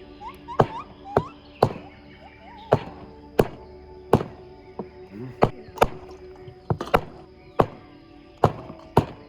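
A knife chopping on a cutting board: sharp strikes, irregular, about one to two a second, over background music.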